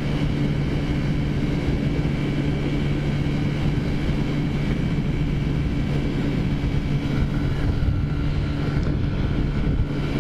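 Taotao scooter's modified 50cc four-stroke engine running at a steady cruising speed, with its stock air cleaner fitted in place of a pod filter, under low wind rumble on the microphone.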